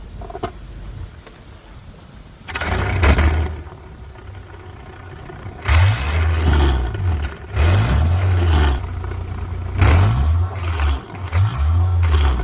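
Car engine with a loud exhaust catching a couple of seconds in, settling, then revved in repeated blips from about halfway, its pitch rising and falling with each rev.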